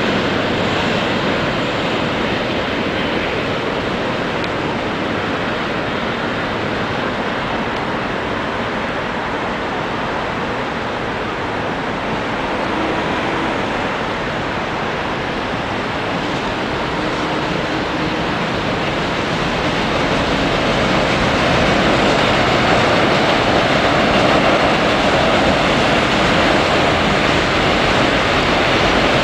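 Trains crossing a steel girder railway bridge: a steady rumbling rush of wheels on rail, growing louder about two-thirds of the way through as a silver, red-striped Seoul Line 1 electric train passes close by.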